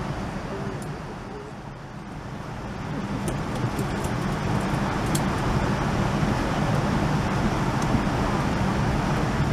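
Steady airliner cabin noise, a low hum with an even rush of air. It dips about a second in and builds back within a couple of seconds.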